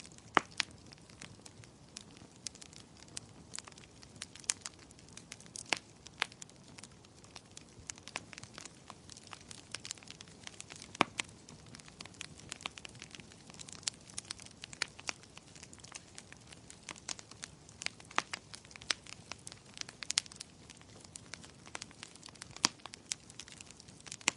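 Wood fire crackling in a fireplace: irregular sharp pops and snaps over a soft, steady hiss of burning, with a few louder pops scattered through.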